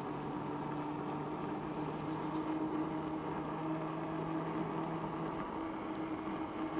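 A motor running with a steady hum over a rushing noise, with no sudden events.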